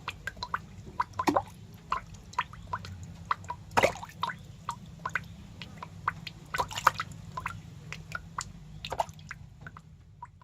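Snail feeding close to the microphone: irregular small wet clicks and pops, a few louder ones, over a steady low hum.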